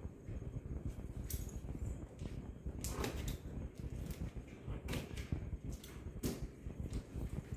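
Scattered clicks, knocks and rustles of an unboxing: packing and parts of a new washing machine being handled, over a low steady rumble.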